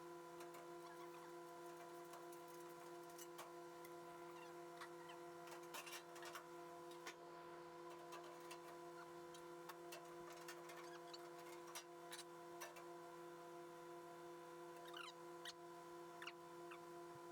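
Near silence: a steady low electrical hum under faint, scattered light clicks and ticks.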